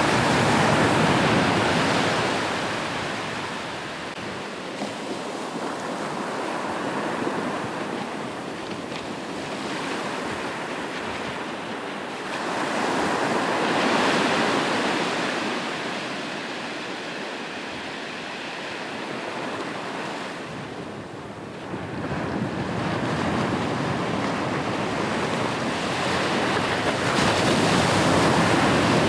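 Sea waves breaking and washing on a shore, in slow swells: one surge at the start, another at about the middle, and a longer one through the last third. A little wind is on the microphone.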